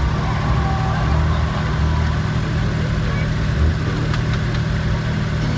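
Off-road 4x4's engine idling with a steady low hum.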